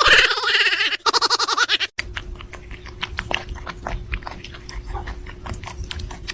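A pet's pitched, pulsing vocal sound for about two seconds. After a brief break come about four seconds of irregular crunching clicks, like a dog chewing.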